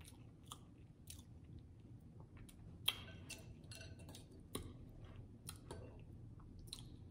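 A person chewing a mouthful of smoked turkey leg close to the microphone: quiet, soft mouth clicks and smacks, with a few sharper ticks, the loudest about three seconds in and again about four and a half seconds in.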